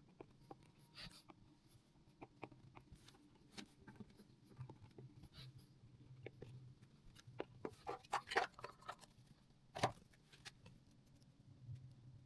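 Faint scraping and light clicks of small hand tools being worked by hand, with a cluster of louder scrapes and a sharp click about eight to ten seconds in, over a low steady hum.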